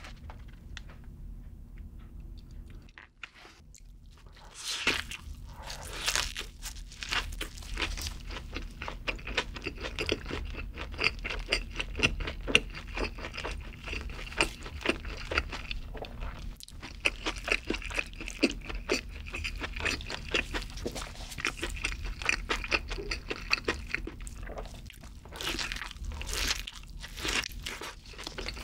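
Close-miked crisp bites into a burger, then steady crunchy chewing. It is quieter for the first few seconds, louder bites come about five seconds in and again near the end, and dense crackly chewing runs between them.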